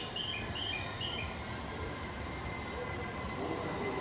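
E231-1000 series electric commuter train starting to pull away from the platform, with a low running rumble and a thin steady high whine. A quick run of short high chirps sounds in the first second or so.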